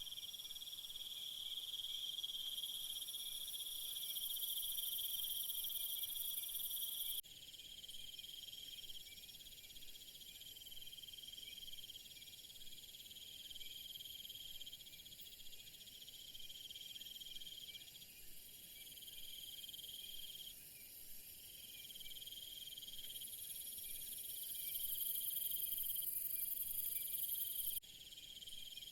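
Crickets and other insects trilling steadily in high, unbroken tones. The mix of insects shifts abruptly about seven seconds in and again near the end, like a join between edited recordings.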